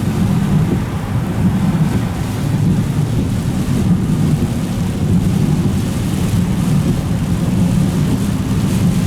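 Steady low rumble of a vehicle driving on a rough, wet road, heard from inside the cabin.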